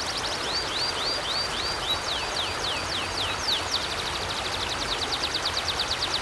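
A bird sings a long series of high, sweeping chirps over the steady rush of a flowing river. The chirps come at an even pace at first, then speed up to a fast run a little past halfway.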